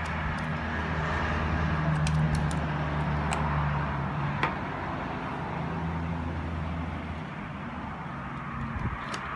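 A steady motor hum with a low drone and a hiss. The drone stops about seven seconds in, and a few light clicks sound through it.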